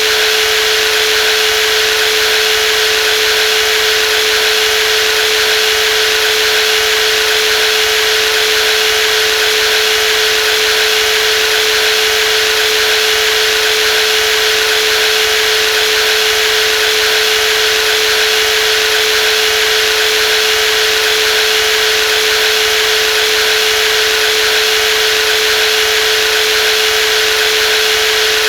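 Brushless jigsaw running steadily: an unchanging whine over a broad hiss, with no change in speed.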